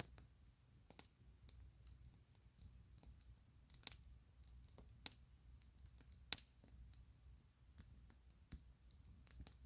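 Campfire crackling: scattered sharp pops from the burning wood, the three loudest coming about four, five and six and a half seconds in, over a faint low rumble.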